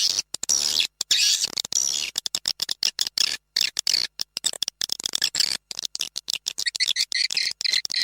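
Swiftlet calling-sound track (SP) for swiftlet farming: rapid, high-pitched swiftlet chirps and twitters, chopped by many short gaps of silence.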